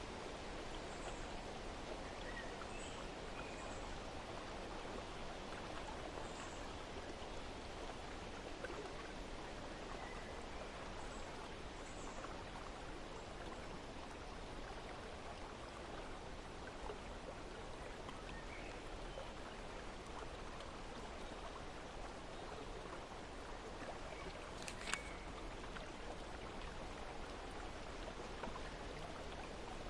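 Steady rush of flowing water, with faint, scattered bird chirps. There is a single sharp click about 25 seconds in.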